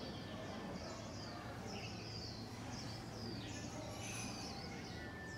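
Small birds chirping: a quick string of short, high, falling chirps, about two a second, over a steady low hum and general outdoor background noise.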